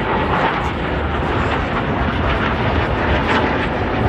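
Jet aircraft flying past, a loud steady rush of engine noise with a deep rumble underneath.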